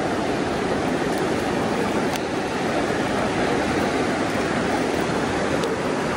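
Creek water rushing steadily over a riffle, a constant even rush with a few faint ticks.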